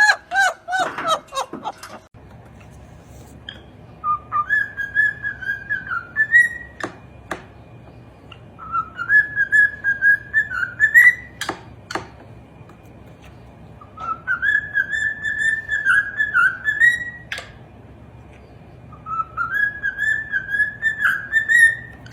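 A parrot whistling a tune in four phrases, each wavering and climbing at its end, with a few sharp clicks between phrases.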